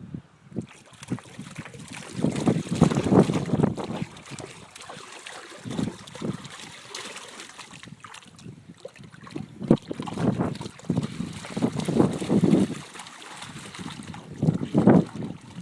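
Vizsla dog paddling and pawing in pool water, making irregular bursts of splashing, loudest a couple of seconds in and again later on.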